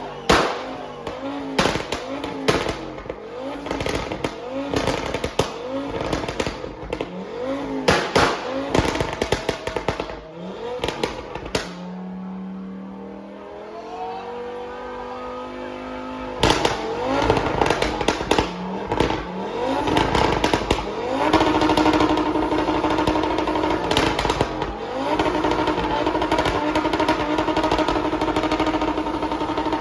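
A car engine revved hard again and again in quick blips, about two a second, with sharp cracks among them. Later it is held at steady high revs.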